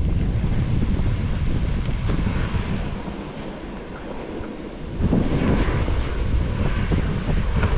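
Wind buffeting the microphone during a snowboard descent, over the hiss of the board sliding on snow. The rush eases off for a couple of seconds in the middle, then comes back.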